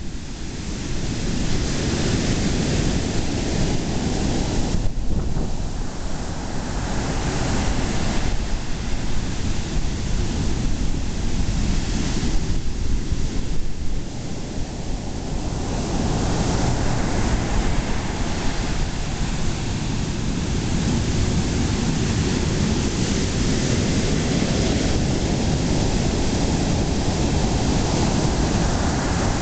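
Ocean surf breaking, a steady rushing that swells and eases every few seconds, with wind buffeting the microphone.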